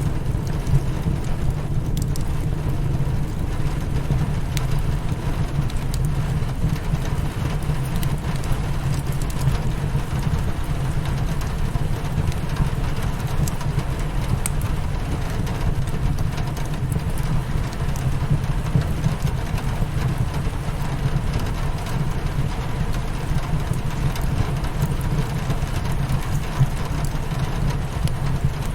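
Steady rain pattering on window glass over a continuous low rumble, with scattered small clicks and pops of a crackling wood fire.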